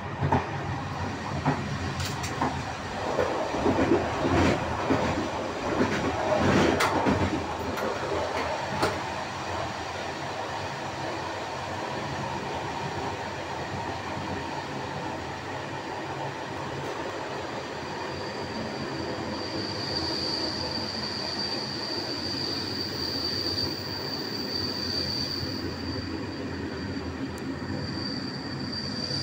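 Passenger train running, heard from its last carriage: steady wheel-on-rail rumble with clattering over rail joints or points in the first several seconds. A high, steady wheel squeal sets in about two-thirds of the way through and keeps going.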